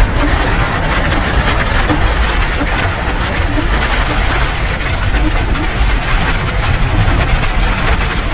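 Steady, loud rain noise with a heavy low rumble under it.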